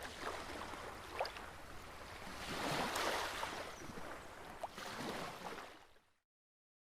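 Rushing water, like waves or a stream, that swells about three seconds in and then fades out.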